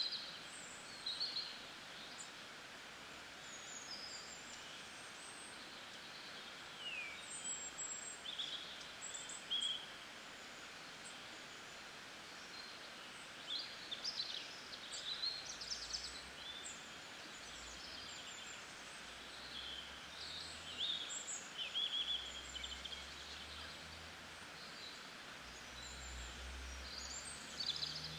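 Birds chirping and calling in short, scattered bursts over a steady soft hiss of outdoor ambience, with a faint low rumble in the second half.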